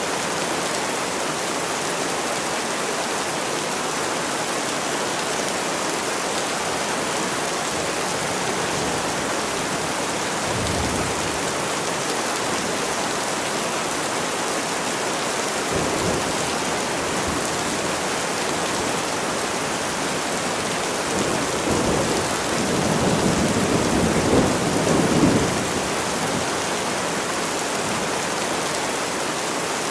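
Steady rain falling, with thunder: a brief low rumble about a third of the way in, another around the middle, and a longer, louder rumble in the last third.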